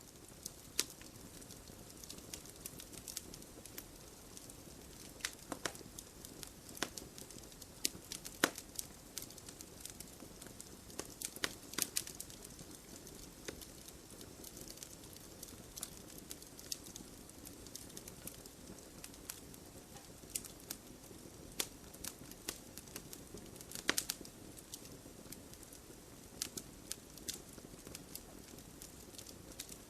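Wood fire in a fireplace crackling, with irregular sharp pops from the burning logs over a soft steady rush of flame.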